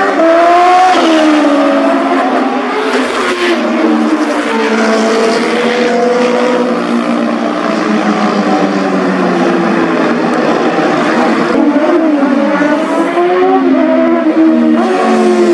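Several sport motorcycles (superbikes) revving and accelerating, their engine notes overlapping and rising and falling in pitch. One bike's note drops sharply as it passes, about three-quarters of the way through.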